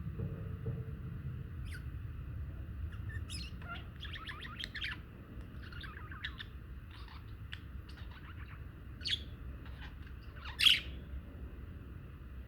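Budgerigars chattering: scattered short chirps and warbling trills, with one sharp, loud call near the end, over a steady low rumble.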